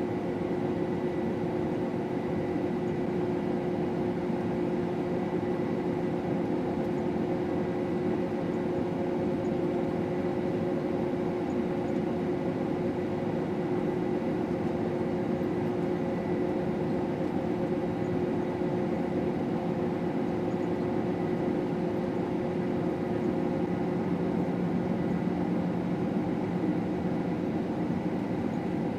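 Combine harvester running steadily while cutting wheat: a constant machine drone with a steady high whine over it.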